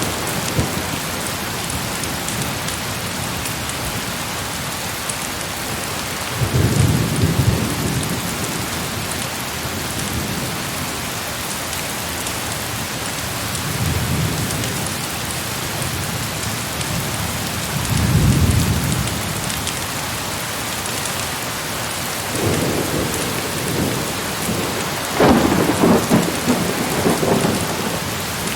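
Heavy rain falling in a steady hiss, with rolls of distant thunder rumbling in several times. The loudest roll comes near the end.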